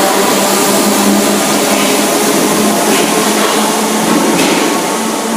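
Merseyrail electric train at the underground platform, a steady loud hum of its motors and equipment with a held low tone and higher whining tones.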